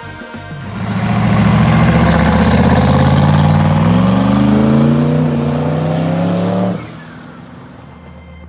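A car engine running loudly under acceleration, its pitch climbing about halfway through, then dropping back abruptly to a low, quieter idle near the end.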